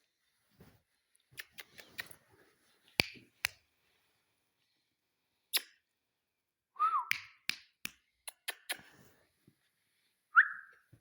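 Ringneck parakeet making a series of sharp clicks with a short whistled call about seven seconds in and another short, sharp whistle near the end.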